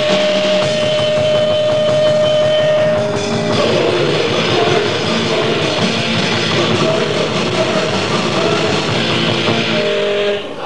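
Grindcore band playing: distorted electric guitar and drum kit in a dense, loud wall of sound. A held high guitar note rings over it until about three and a half seconds in, where the riff changes, and the sound drops out briefly just before the end.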